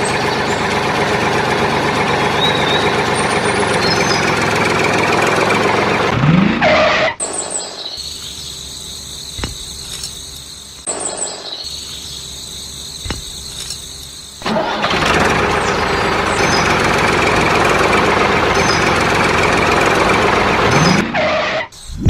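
A small engine or motor running loud and steady, dropping for several seconds in the middle to a quieter steady hum with a few clicks, then coming back.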